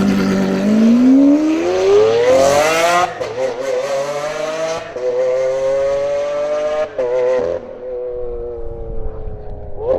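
Lamborghini Aventador's V12 through an iPE (Innotech Performance Exhaust) system, revving hard. The note climbs steadily for about three seconds and drops sharply. It then climbs again more slowly, dips around seven seconds in, and sinks and quietens near the end.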